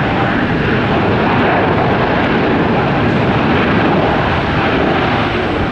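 Jet airliner engines close by, a loud, steady rush of engine noise.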